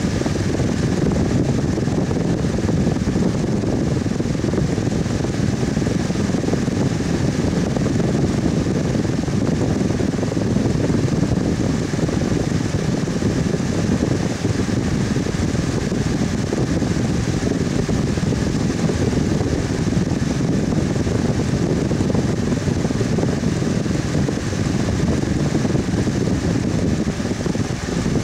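Electric fan running steadily, a continuous low whooshing hum of moving air with no change in speed.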